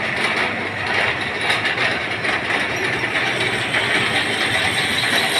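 Steady mechanical noise of a machine running, an even whirring din with faint irregular ticks.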